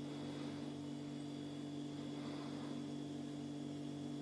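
Steady low electrical hum made of a few fixed low tones, unchanging throughout, with a faint hiss above.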